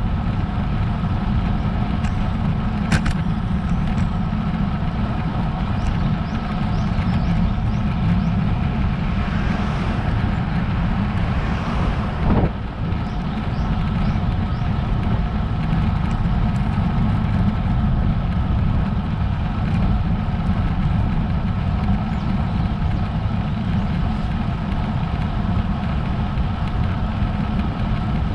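Steady wind rumble and road noise from a road bike ridden uphill, picked up by a bike-mounted GoPro action camera. A motor vehicle passes about ten seconds in.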